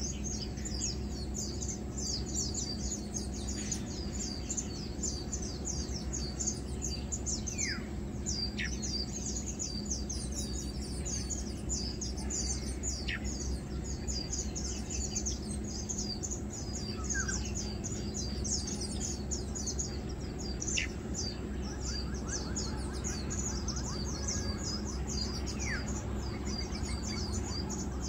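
Birds chirping: a dense, constant high chatter, with a few short whistled calls that fall in pitch scattered through it, over a steady low rumble.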